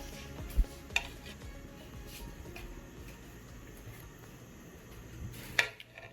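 Metal serving spoon scooping biryani rice out of a cooking pot, a soft scraping rustle with a few sharp clinks of spoon on metal, one early and a louder one near the end.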